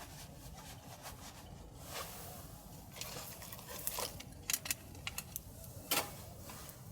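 Irregular sharp clicks and light knocks, sparse at first and then denser and louder, the loudest a little before the end, over a steady low rumble.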